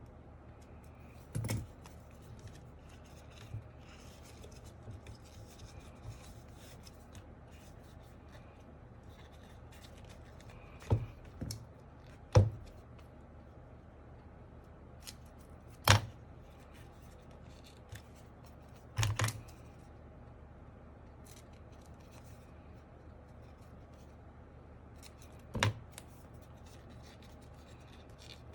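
Keyboard parts and tools handled on a desk during disassembly and foam fitting: about half a dozen sharp knocks spread out, with faint scraping and rustling between.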